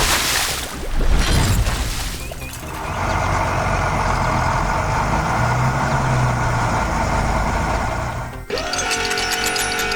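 Animation soundtrack: background music with a loud crashing noise burst in the first two seconds, then a steady rushing noise that cuts off near the end, where the music comes back.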